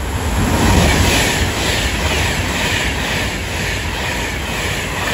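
Avanti West Coast Class 390 Pendolino electric train passing through the station at speed without stopping: a loud rush and rumble of wheels on rail with a repeating clatter. It is loudest about a second in.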